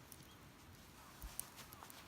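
Near silence with a few faint knocks about a second in.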